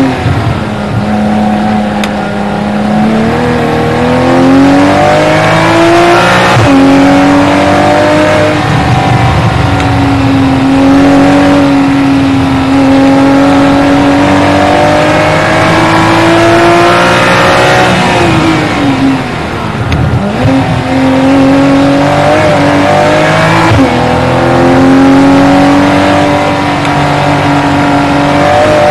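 Porsche Boxster 981 race car's flat-six engine heard from on board at speed, mostly in third gear between about 4,800 and 5,700 rpm. It climbs in pitch as the car accelerates, holds through long stretches, and drops sharply about twenty seconds in when the driver lifts off, then pulls up again.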